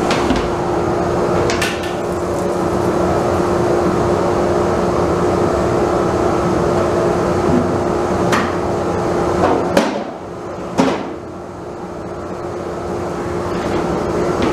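A steady machine hum with a fixed tone, broken by a few sharp knocks like wood or tools being struck or set down. The hum drops about ten seconds in and slowly builds back up.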